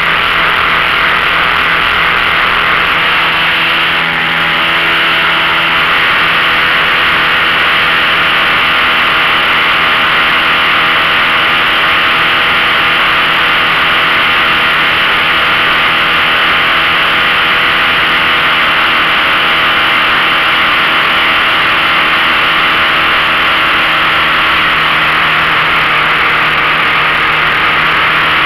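A 15 hp outboard motor running steadily under load while towing, under a loud, even rushing of wind and water; the loudness dips slightly about four seconds in, then holds steady.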